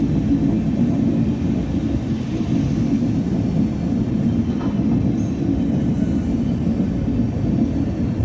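Railway train running, a steady low rumble.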